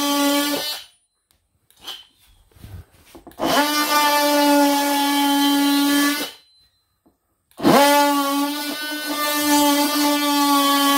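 Oscillating multi-tool running in three stretches, a steady high buzz that winds up quickly at each start. The first run stops under a second in, and two more of about three and four seconds follow, as it plunge-cuts the outline for an electrical box.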